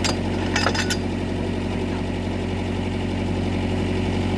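Mitsubishi MS030 excavator's diesel engine idling steadily, with a few sharp clicks in the first second.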